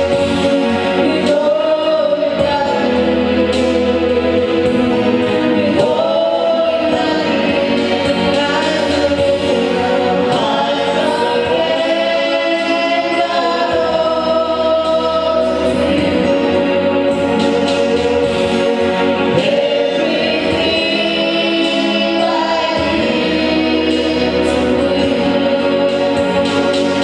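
Gospel worship song sung by a choir of several voices over instrumental backing.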